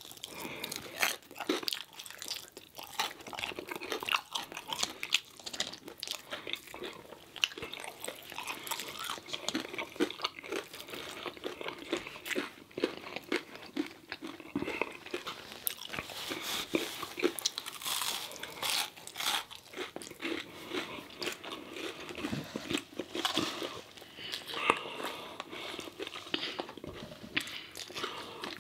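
Two people biting and chewing crispy battered fried food, with dense, irregular crunching throughout.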